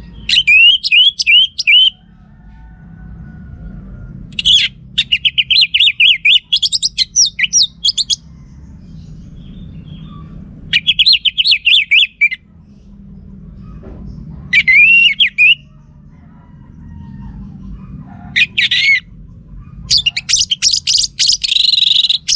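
Orange-headed thrush singing: about six phrases of quick, repeated whistled notes, with short pauses between them, over a faint low hum.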